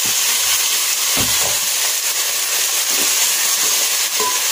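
Chopped tomatoes and red onion sizzling steadily in hot oil in a metal pot, stirred with a wooden spoon that gives a few soft scrapes.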